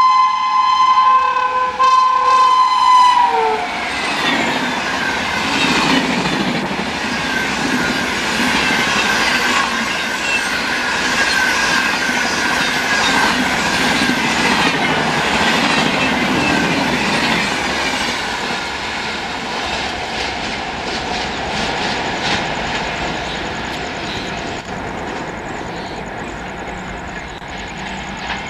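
Air horn of a WAP-7 electric locomotive, a hoarse 'sore-throat' honk, sounding for about three seconds and dropping in pitch as the engine passes. Then the express train's coaches rush past at high speed, wheels clattering over the rail joints, the noise slowly fading.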